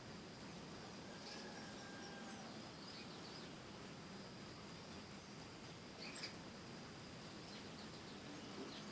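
Birds chirping: a few short, high calls scattered over a faint steady background hiss of outdoor ambience.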